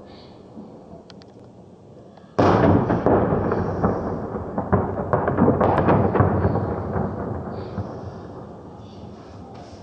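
Fireworks: a sudden loud burst about two and a half seconds in, then dense crackling that slowly dies away.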